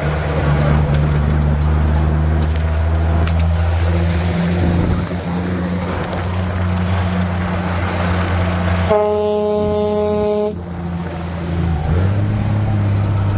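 Truck engine running steadily, with a single horn blast of about a second and a half about nine seconds in. The engine note rises a little near the end.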